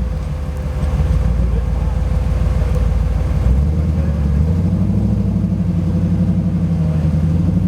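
Nissan GQ Patrol's engine running under load. Its revs rise about three and a half seconds in and then hold steady at the higher speed.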